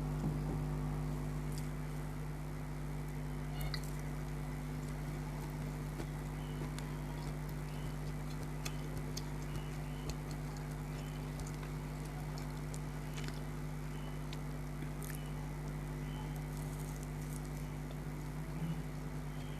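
Chewing and mouth sounds of someone eating chicken snacks: small wet clicks and crunches scattered throughout, over a steady low electrical hum.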